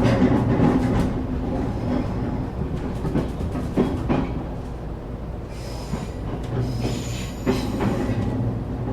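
Passenger-cabin sound of a train running on the rails: a steady low rumble, with wheels clicking over rail joints in the first few seconds and a thin, high wheel squeal about six to eight seconds in.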